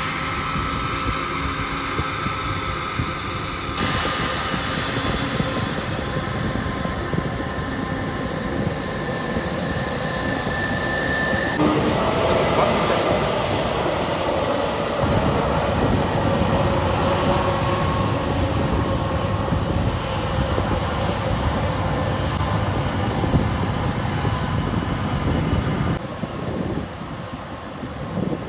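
Jet airliner passing close by: high engine whine for the first twelve seconds, then the sound changes to a fuller, broader roar, which eases off near the end.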